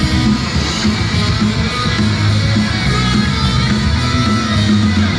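Loud live rock music with distorted guitar over a steady heavy low beat, an instrumental stretch of an idol group's song played through a small club's PA.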